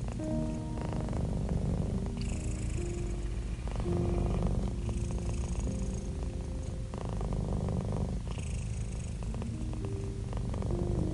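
Domestic cat purring in a steady, continuous low rumble. Soft held notes sound above it, changing pitch every second or so.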